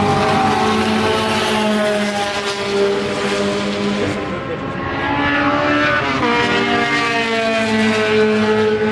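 Race car engines at high revs going past on a road course: one car's engine note fades about four seconds in, and a second car's engine builds and holds from about five seconds in.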